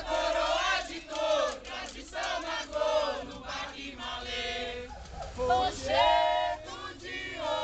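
A group of voices chanting and singing a maracatu song, with one strong held, called-out line about two-thirds of the way through.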